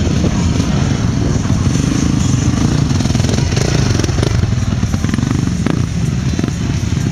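Motocross motorcycle engines running, a steady, dense low din.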